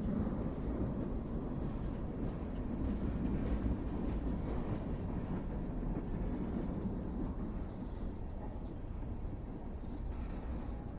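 Train cars rolling along the track with a steady low rumble, and a few brief, faint high metallic squeals from the wheels.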